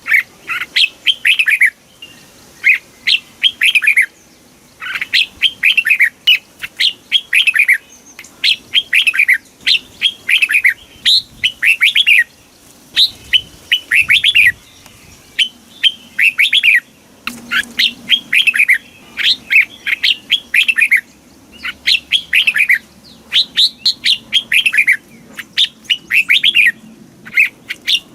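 Red-whiskered bulbul singing: quick phrases of two to four clear, falling whistled notes, repeated over and over with short pauses between phrases.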